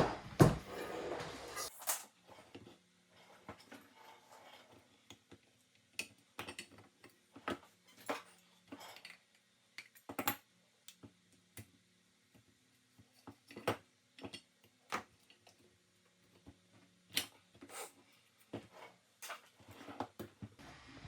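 Scattered sharp clicks and clinks of hand tools and cutters working on a metal LED floodlight, with a louder cluster at the start. A faint steady low hum runs under them until near the end.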